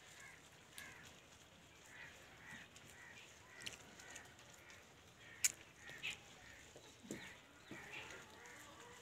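Faint bird calls repeating about twice a second, with a few sharp clicks, the loudest about five and a half seconds in.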